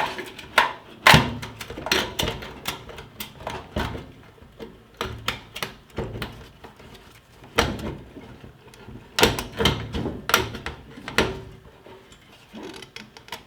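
Irregular clicks, knocks and clatter of a fuel pump module and its fittings being handled and worked out of a car's fuel tank.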